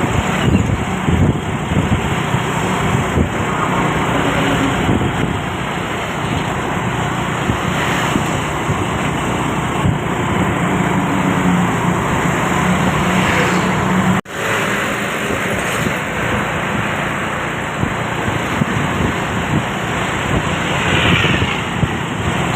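Steady road traffic noise of vehicles on the move, engines and tyres running together with a low engine drone, broken by a sudden split-second dropout about fourteen seconds in.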